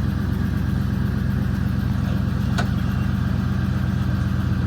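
1999 Ford F-150 engine, 282,000 miles on it, idling steadily, with a single short click about two and a half seconds in.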